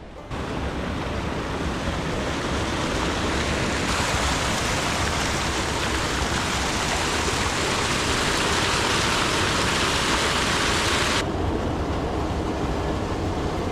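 Rushing stream water, a steady loud hiss. It grows louder and brighter about four seconds in, then drops back suddenly about eleven seconds in.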